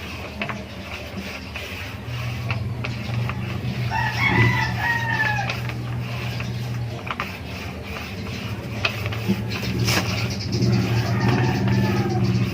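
A rooster crowing: one long arched crow about four seconds in and a fainter second crow near the end, over a steady low hum.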